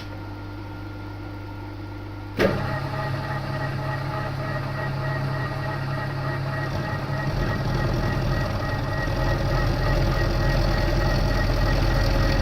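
TOS milling machine's spindle and gear drive switched on about two seconds in, starting with a sudden jolt and then running with a steady gear whine. From about seven seconds in a deeper rumble joins and the sound grows louder as the solid carbide drill is fed slowly into the snapped exhaust stud.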